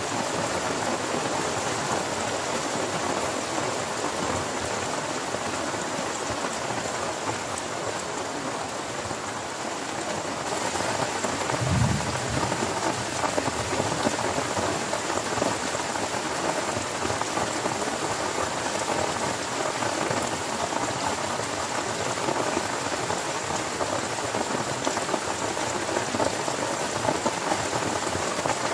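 Heavy rain falling steadily on a tent, an even hiss of many drops. About twelve seconds in there is one brief low thump.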